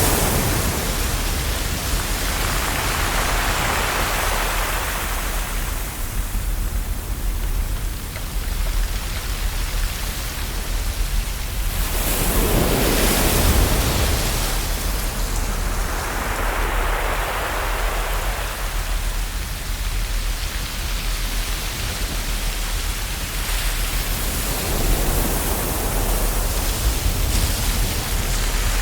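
Ocean waves breaking and washing ashore: a steady rushing hiss that swells into a loud surge about every twelve seconds and then ebbs away.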